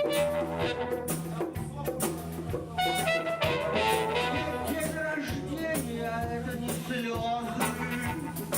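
Live band playing an upbeat number: bass and drums keep a steady beat under a moving lead melody.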